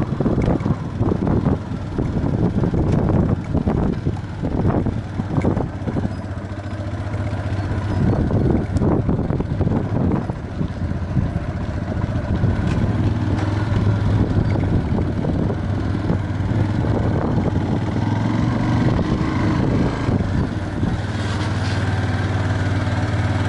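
Single-cylinder engine of a Viper V250C cruiser motorcycle running while riding, with heavy wind buffeting on the microphone in the first half. From about halfway through, the engine settles into a steady low hum.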